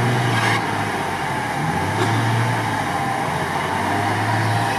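Toyota FJ Cruiser's 4.0-litre V6 engine running at raised revs under load while the stuck truck is winched, the revs easing and picking up again a few times.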